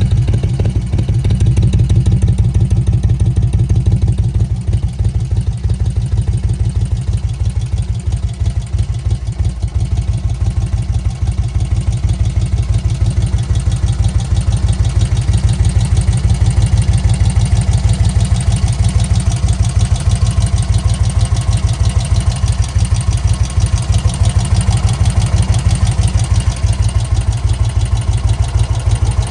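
1991 Magni Sfida 1000's air-cooled Moto Guzzi 90-degree V-twin idling steadily, with an even low beat of exhaust pulses.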